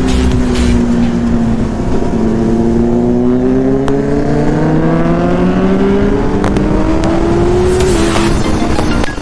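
Sportbike inline-four engine pulling under throttle. Its pitch dips, then climbs steadily for several seconds, then drops sharply near the end.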